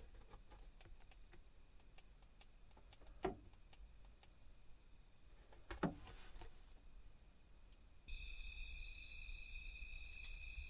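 A string of faint, light clicks and two louder soft knocks, like small things being handled in a confined space. About eight seconds in, a steady high chirring of insects starts abruptly.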